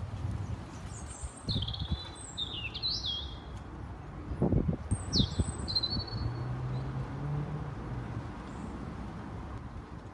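Birds calling in short high chirps and whistles, in two bursts: a run of notes from about a second in and a shorter one around five seconds. Under them is a steady low outdoor rumble with a faint low hum in the middle.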